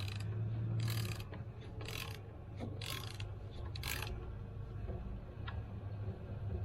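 Metal hand-tool work: a short rasping click about once a second for the first four seconds, then fainter, over a steady low hum.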